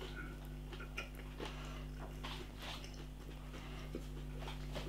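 Faint chewing of a mouthful of breaded chicken: irregular small wet clicks and smacks, over a steady low electrical hum.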